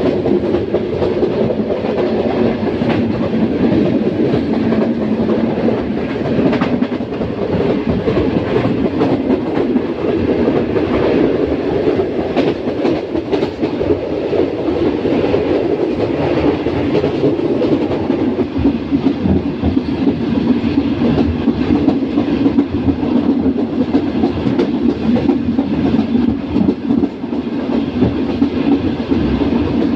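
Passenger train coach wheels running at speed on the rails: a steady, loud track rumble with a constant scatter of sharp clicks from the wheels and track.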